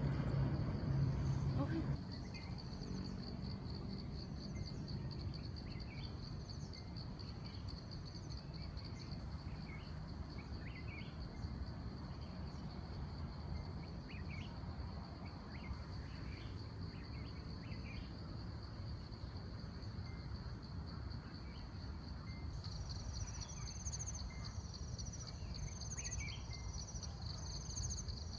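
Insects trilling steadily in a high, rapidly pulsing chorus, with a second, higher trill joining near the end and scattered short chirps. A low hum is heard in the first two seconds.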